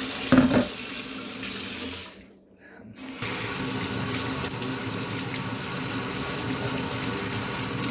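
Kitchen tap running into a sink as an onion is rinsed under it, with a short knock near the start. The water stops for about a second a little over two seconds in, then runs steadily again.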